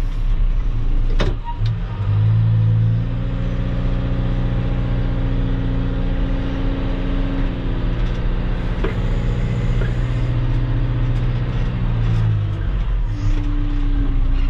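Engine of a machine pulling a drag to spread road gravel, running steadily under load, with its hum growing louder for a moment about two seconds in and again later on.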